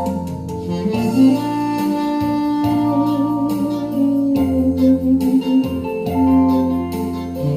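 Instrumental music: a saxophone plays a slow melody of long held notes over a backing accompaniment with bass and a steady beat.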